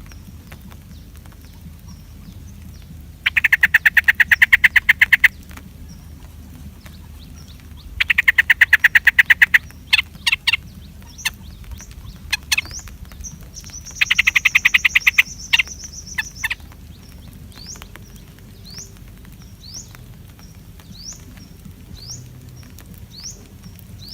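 Bird calls: three loud, rapidly pulsing trills of about two seconds each, and short rising chirps repeated every second or so from the middle onward.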